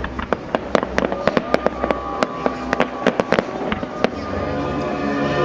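Fireworks salute: a rapid, irregular run of sharp bangs and cracks, about twenty in the first four seconds, thinning out near the end.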